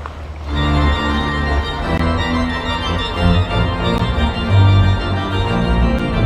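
Organ playing full sustained chords over deep bass pedal notes, coming in about half a second in after a moment of wind and water noise.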